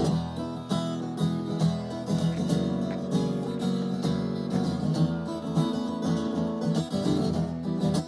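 Acoustic guitar strummed, playing an instrumental passage between sung verses.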